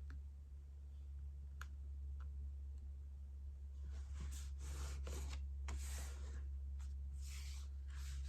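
Cardstock paper being handled: a couple of light clicks, then soft swishing and rubbing strokes about halfway through, over a steady low hum.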